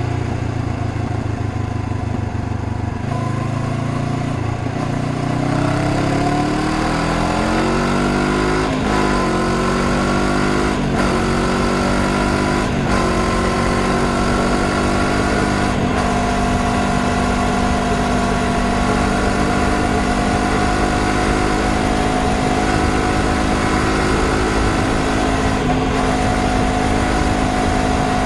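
Honda CBR500R's parallel-twin engine pulling away from low revs and accelerating up through the gears, its note rising with a short break at each of about four upshifts, then settling into a steady cruise with the pitch slowly climbing.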